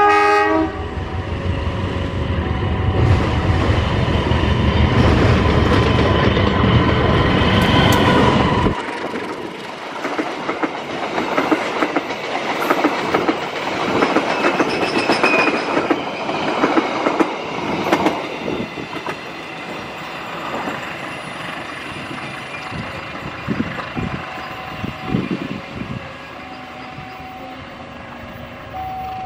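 Diesel locomotive horn sounding briefly, then the locomotive's engine rumbling loudly as it comes in. After about nine seconds the sound cuts to a passenger train rolling past close by, its wheels clattering over the rail joints and fading as it moves away.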